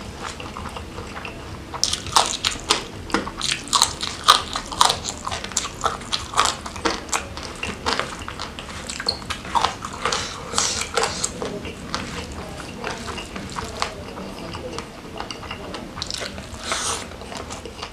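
Close-miked eating with the fingers: chewing a mouthful of fried gourami, rice and raw vegetables. Many crisp crunches and wet smacks come in quick succession, starting about two seconds in.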